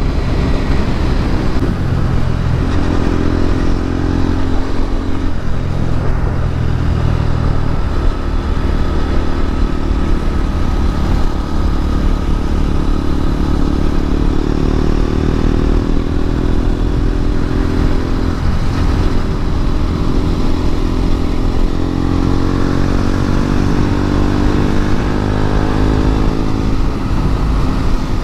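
KTM RC 200's single-cylinder engine running hard at highway speed. Its pitch drifts, dips briefly about two-thirds of the way through, then climbs steadily near the end as the bike pulls harder.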